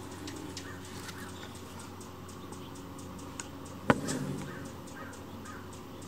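Birds calling: faint, rapid ticking notes, then a sharp click about four seconds in followed by a brief harsh call.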